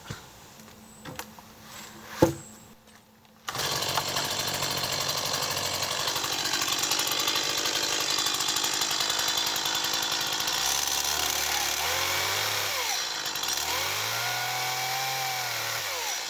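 Gasoline chainsaw running at high speed, coming in suddenly a few seconds in after a quiet stretch with a few clicks and a sharp knock. In the second half its engine pitch sags and recovers several times, as it does when the chain is loaded in a cut.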